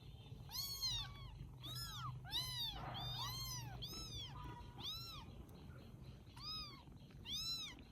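Baby kittens mewing over and over, thin high-pitched mews that each rise and fall in pitch, about one or two a second, now and then overlapping.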